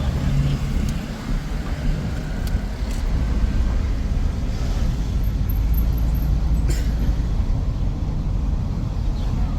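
Car on the road: steady low rumble of engine and road noise, with a few faint clicks, the clearest about seven seconds in.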